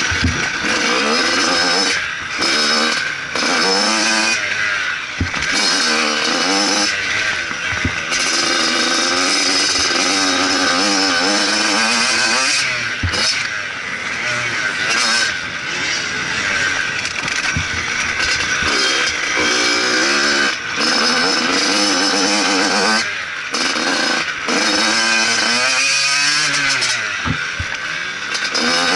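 Motocross bike engine revving hard and dropping back over and over as the throttle is worked, with brief cuts every few seconds where the throttle is shut.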